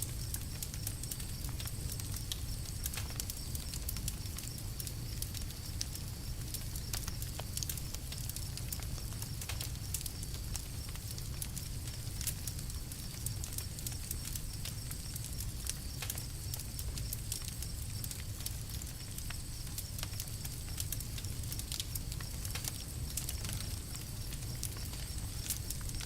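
Campfire crackling: frequent small sharp pops and snaps scattered irregularly over a steady low rumble.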